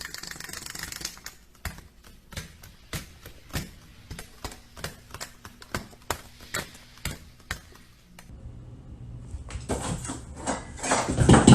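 Irregular light taps, about two or three a second, followed about eight seconds in by a louder noisy stretch that builds toward the end.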